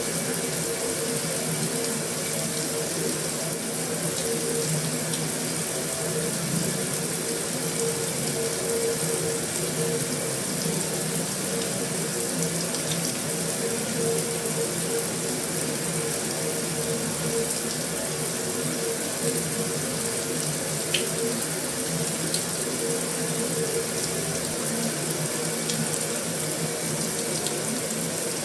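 Heavy rain falling steadily on a metal roof, an even, unbroken rush with a few faint ticks of drops here and there.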